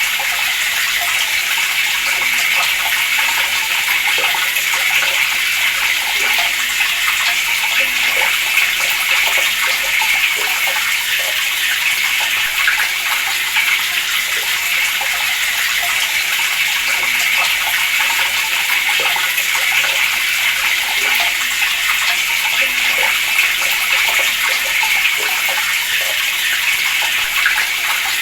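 Water running steadily from a tap, pouring and splashing in an even rush.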